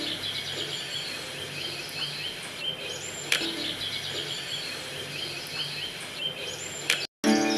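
Birds chirping and calling, with a few short rising whistles, over a steady outdoor background hiss; the sound cuts out briefly near the end.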